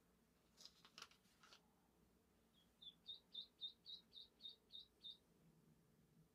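A quiet room. A few faint clicks and rustles come in the first second and a half, then about halfway through a bird gives a run of about nine short, high chirps, evenly spaced at roughly three a second.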